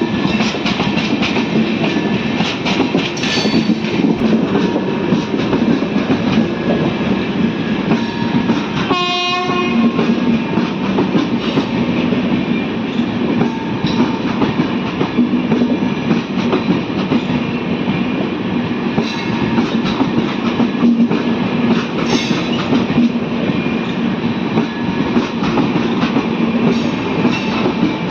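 A passenger train running on the track: a steady, loud rumble and rattle of wheels and coaches. About nine seconds in there is a short horn-like tone lasting under a second.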